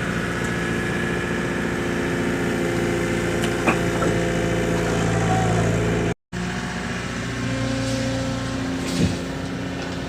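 Mini excavator engine running steadily, with a couple of short sharp knocks. The sound cuts out for a moment about six seconds in.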